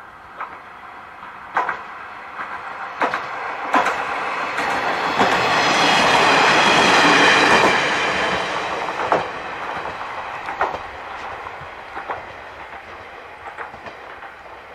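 KiHa 40 diesel railcar passing close by: the sound of its engine and wheels swells to a peak about seven seconds in, then fades as it moves away. Its wheels clack over the rail joints throughout.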